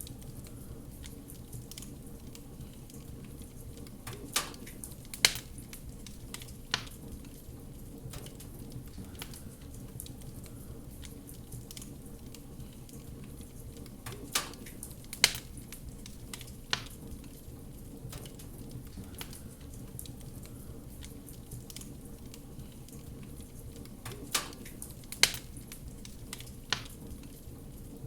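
Fireplace fire crackling steadily with soft ticks, and a few sharper pops that come in groups of three about every ten seconds.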